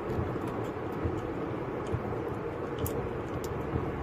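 Steady vehicle driving noise, a low rumble of engine and road, with a few faint light clicks.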